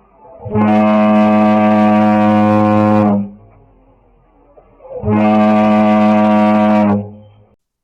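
A deep horn sounds two long, steady blasts, the first about two and a half seconds long and the second about two seconds, with a pause of about two seconds between them.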